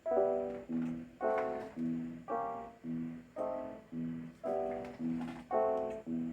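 Synthesized music from a Sound Blaster Pro sound card: piano-like notes struck about twice a second, alternating a low note with a higher chord, each dying away before the next.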